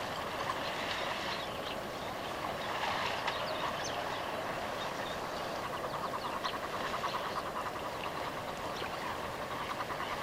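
Wild animal chorus: many short chirps and calls over a steady hiss, with a rapid, evenly pulsing trill joining about six seconds in.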